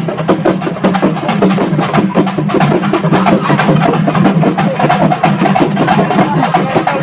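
Festival drums played fast and loud, a dense run of rapid strikes over a steady low tone.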